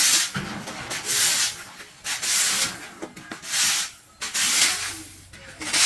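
Rough rubbing or swishing strokes, about one a second, loud and regular.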